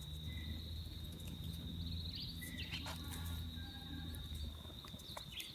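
Cricket-like insect giving a steady high-pitched trill, with a few short bird chirps. A steady low hum lies underneath and fades out near the end.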